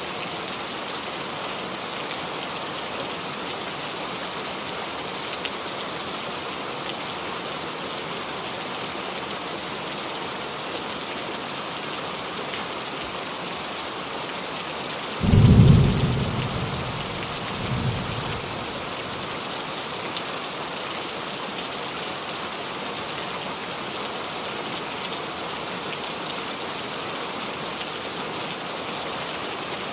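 Steady heavy rain falling on a roof, with a clap of thunder about halfway through: a sudden deep rumble that fades over a couple of seconds, followed by a smaller rumble.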